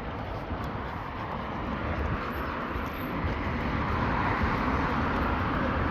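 Road traffic noise from passing vehicles, a steady rushing sound that slowly grows louder over the second half.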